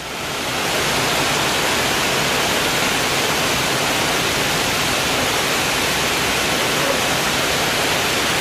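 Heavy monsoon rain pouring down on paving and foliage, a dense, even hiss that swells up over the first second and then holds steady.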